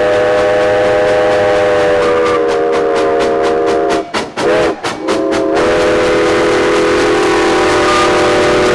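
Narrow-gauge steam locomotive No. 493's chime whistle sounding a long chord-like blast. About halfway through it is cut into a few quick short toots, its pitch sagging as the valve closes, then it is held long again.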